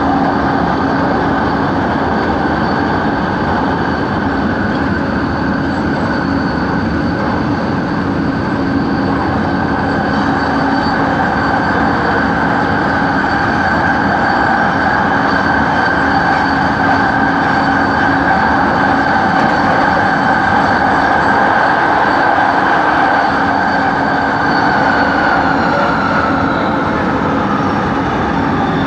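LRT train running, heard from inside the car: steady rumble of wheels on track with a humming, whining traction-motor noise at several pitches, the uploader's 'weird motor noise'. Near the end the whine falls in pitch as the train slows.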